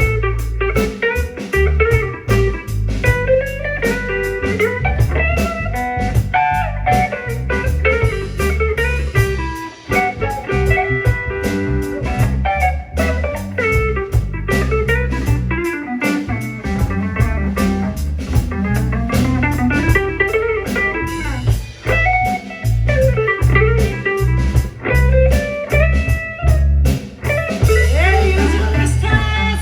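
Band playing blues-style music: a guitar lead with bending notes over a heavy bass line and a drum kit.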